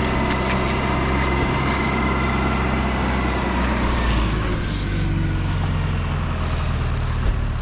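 Heavy truck engine running steadily, settling to a lower pitch about four to five seconds in. Near the end a high electronic beeper starts pulsing.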